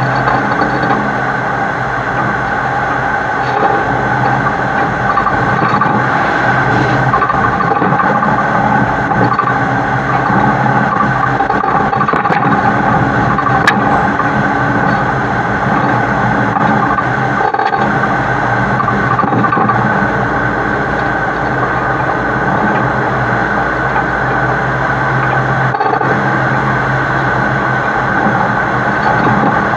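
Heavy truck hauling an oversized load, heard from a camera mounted on its side: a steady engine drone mixed with continuous road and wind noise.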